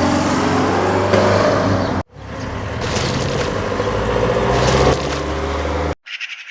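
A vehicle engine running steadily with a deep hum, cut off abruptly about two seconds in and again near the end.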